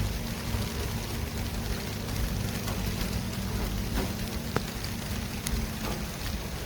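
City street traffic: a steady rumble and hiss of vehicles and tyres, with a low steady hum that stops near the end and a few faint clicks.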